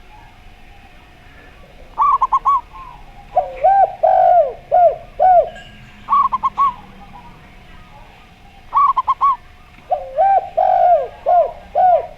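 A zebra dove and a spotted dove cooing in turn. Short bursts of four quick, higher staccato coos alternate with longer, lower phrases of five or six swooping coos, the pattern repeating every few seconds.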